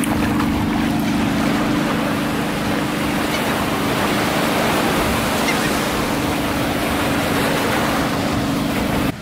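Surf washing onto a beach in a loud, steady rush, with a steady low hum underneath; both cut off suddenly near the end.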